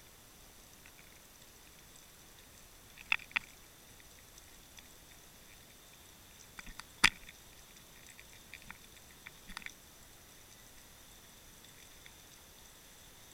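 Underwater audio from a Water Wolf fishing camera: a faint hiss with a thin, steady high electronic whine and scattered sharp clicks and ticks, a pair about three seconds in and the loudest about seven seconds in.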